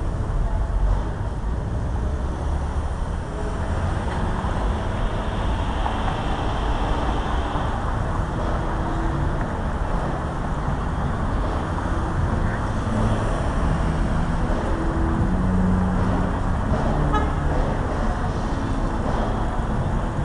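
Steady motor-vehicle and traffic noise, with short low tones now and then; the strongest comes about three-quarters of the way in.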